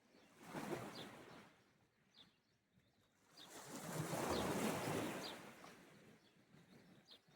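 Small sea waves breaking and washing up the shore twice, each surge swelling and then fading away. Short high bird chirps sound several times between and over the waves.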